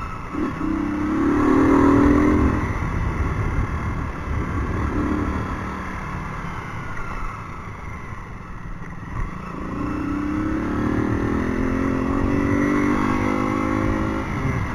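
Motorcycle engine running through a newly changed exhaust pipe, rising in pitch twice as it accelerates, once near the start and again through the second half.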